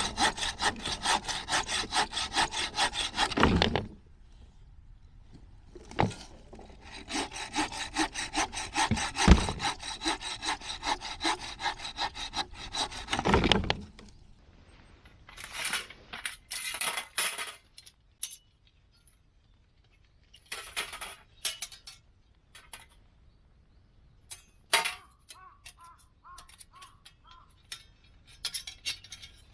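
Hand saw cutting through wood in quick back-and-forth strokes: two bouts of sawing a few seconds each with a short pause between. Then scattered light knocks and rattles as things are handled.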